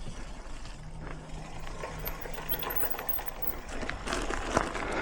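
Mountain bike rolling over dry dirt singletrack: tyre noise and wind on the mic, with a short steady hum about a second in. Chain and frame rattle and knock over bumps, loudest about four and a half seconds in.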